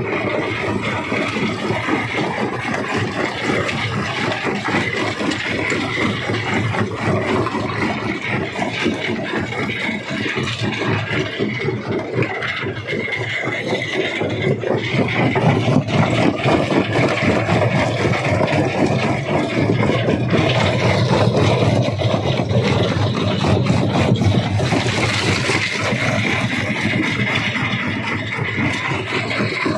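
Stone crusher machine running, with a dense, continuous rattle and knocking of rock being broken over the machine's steady drone. The noise grows louder about halfway through.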